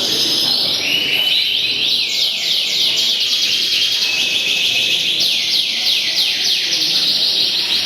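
Many caged songbirds singing at once in a competition, a dense, unbroken mass of rapid chirps and quick falling trills.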